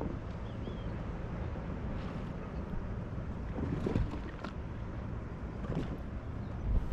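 Steady wind and water noise aboard a sailboat, with wind buffeting the microphone and a few faint knocks.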